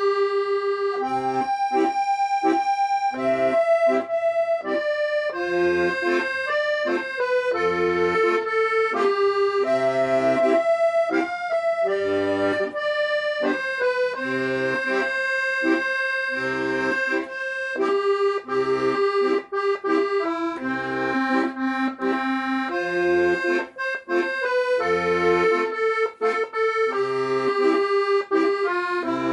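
Solo accordion playing a melody in sustained reedy notes over a regular left-hand bass and chord accompaniment, starting suddenly.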